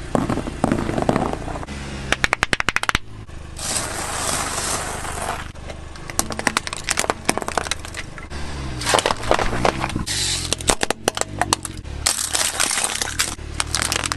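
Rapid runs of sharp cracks and crackles alternating with stretches of hiss, over steady low tones that step in pitch like a bass line.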